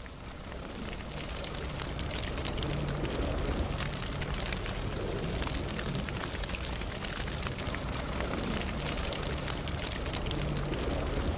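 Wood campfire crackling with frequent small pops over a low rumble of burning flames, fading in over the first couple of seconds.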